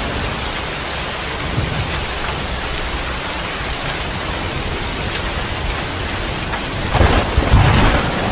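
Rain falling steadily, with a louder low rumble swelling in about seven seconds in.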